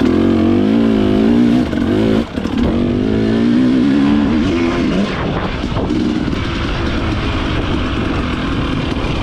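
Dirt bike engine revving under way, its pitch rising and falling with the throttle, with a short throttle cut about two seconds in, then settling into a steadier run.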